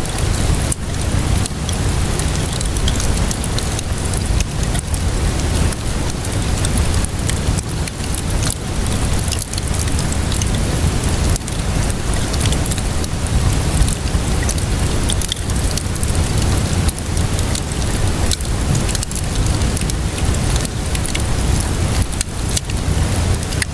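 Steady rainfall mixed with a crackling wood fire: a continuous dense hiss with a low rumble beneath it, dotted with frequent small pops and crackles.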